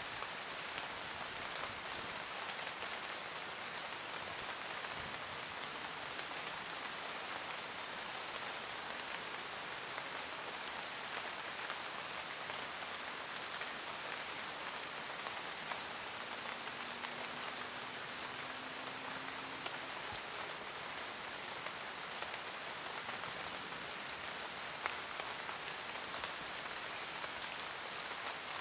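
Steady rain falling on forest leaves: an even hiss with many scattered sharp drips.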